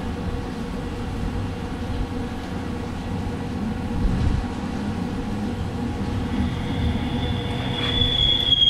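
A power tool running on quarter-inch scrap steel plate, with a steady low hum. About six seconds in, a high, steady metal-on-metal squeal comes in and grows loud by the end.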